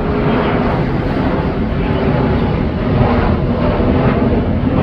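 Loud, steady mechanical rumble of a large passing vehicle, with low droning tones, building up through the middle and later part.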